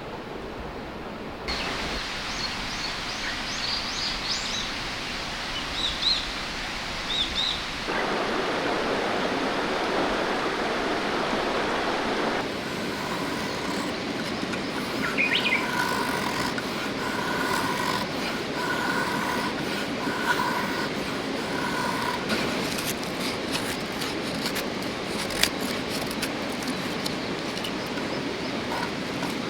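Flowing river water running steadily, with small birds chirping over it. The water noise shifts abruptly several times. Later a repeated two-note call sounds about once a second, and scattered sharp clicks come near the end.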